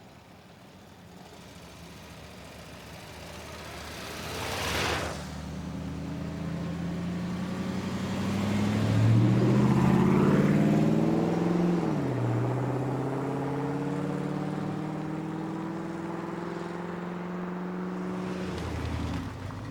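A car engine accelerating away: its pitch climbs, drops sharply at a gear change about twelve seconds in, then climbs slowly again. A brief rush of noise comes about five seconds in.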